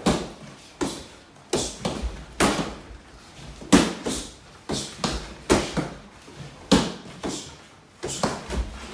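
Punches and kicks striking a karate kick mitt: about a dozen sharp slaps in quick combinations, each ringing briefly in the room.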